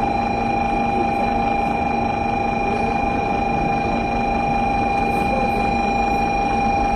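Steady background noise on a Shinkansen station platform: an even hum and hiss with a few constant high tones that neither rise nor fall.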